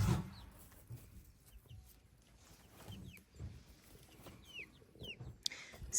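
Young hens (Rhode Island Reds, Barred Rocks and Easter Eggers) making faint, scattered clucks and a few short, high peeps.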